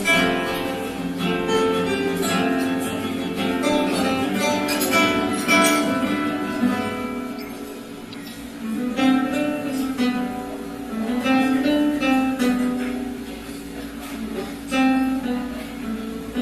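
Three acoustic guitars playing an ensemble piece together, plucked melody over bass notes, easing to a softer passage about halfway through before picking up again.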